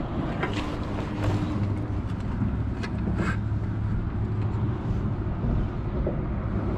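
Steady low rumble with a few short clicks and knocks over it.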